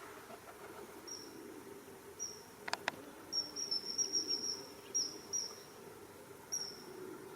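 Short, high, thin chirps repeated in an irregular run, thickest in the middle, over a faint steady low hum. Two sharp clicks come close together about three seconds in.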